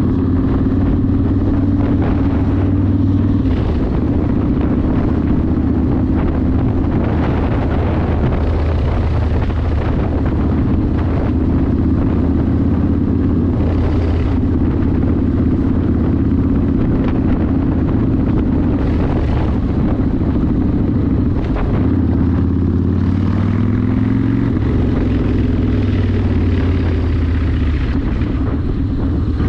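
Yamaha Warrior 1700's air-cooled V-twin running through a custom exhaust while riding at a steady cruise, with wind rush. About two-thirds of the way through, the engine note dips, then climbs again.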